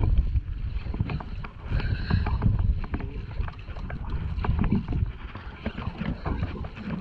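Sounds aboard a small fishing boat at sea: wind buffeting the microphone in an irregular low rumble, with scattered knocks and water against the hull.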